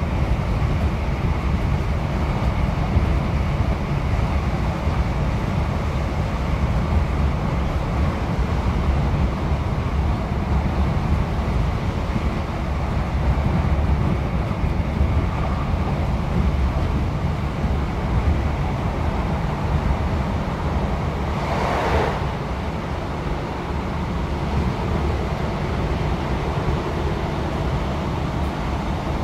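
Cabin interior of a British Rail Class 156 Super Sprinter diesel multiple unit running at speed: a steady low rumble of its underfloor Cummins six-cylinder diesel engine and the wheels on the rails. A brief rushing burst comes about three quarters of the way through.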